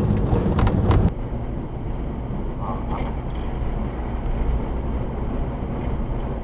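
Steady low road and engine rumble of a car driving, as picked up by a dash camera. A louder, busier sound cuts off suddenly about a second in.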